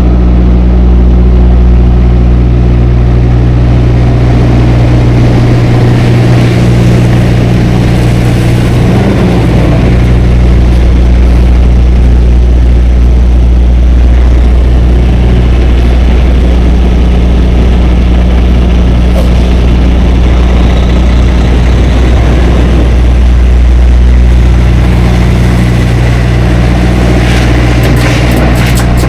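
Tractor-trailer's diesel engine running steadily with a constant low drone. A few sharp clicks come near the end.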